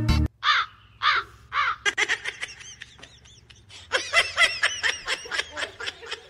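A cat chirping and chattering: three separate rising-and-falling chirps, then rapid runs of short chirps about two seconds in and again, louder and denser, from about four seconds on.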